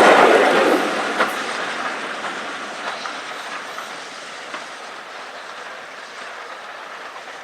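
A train running past and moving away, its wheels clicking over rail joints as the sound fades.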